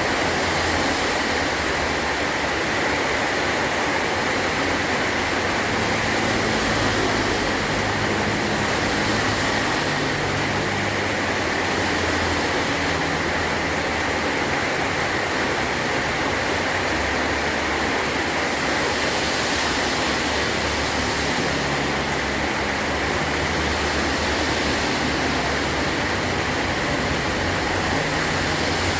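Heavy rain falling steadily on a metal roof, an even, unbroken hiss and patter.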